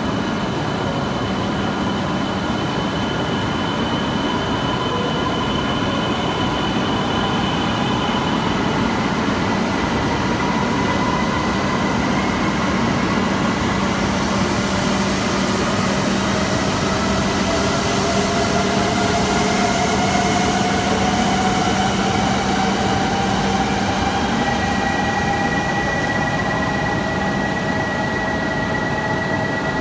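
E7 series Shinkansen standing at an underground station platform, its electrical equipment humming steadily. Slowly rising electric whines swell through the middle, and a steady high tone begins near the end.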